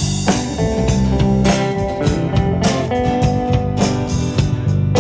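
Live band playing an instrumental song intro led by guitar, with drums keeping a steady beat.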